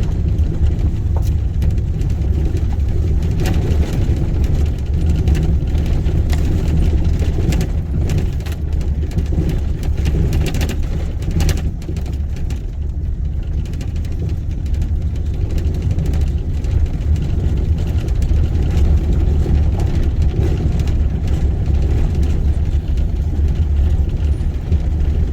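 Steady low rumble of a vehicle's engine and tyres heard from inside the cabin while driving on a rough, unpaved mountain road, with scattered knocks and rattles from the bumps.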